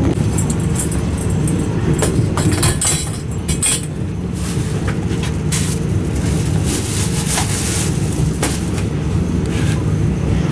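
Sleeper express train running on the track: a steady low rumble of wheels and running gear, with irregular sharp clicks and knocks from the rails and the rattling car.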